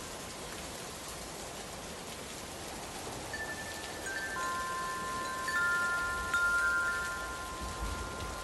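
Steady rain hiss, with wind chime tones joining about three seconds in: several long ringing notes overlapping and dying away slowly.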